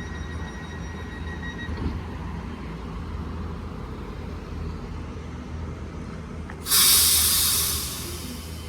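Electric passenger train at a station platform: a steady low rumble, then about two-thirds of the way in a sudden loud burst of air hiss from its pneumatic brakes that fades over about a second.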